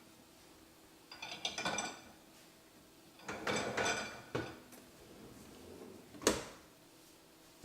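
Ceramic plates and a dishwasher rack clinking and rattling in two short clusters, then a single sharp knock about six seconds in.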